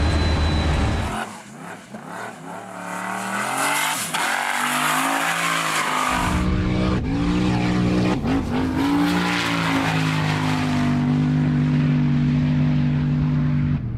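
A V8 drag car's engine idles for about a second, then the car accelerates hard down the runway, its engine note climbing and dropping back through several gear changes before holding steady near the end.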